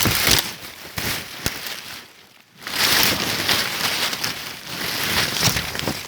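Loud rustling and crackling of leaves and brush, full of small snaps, with a short pause a little over two seconds in.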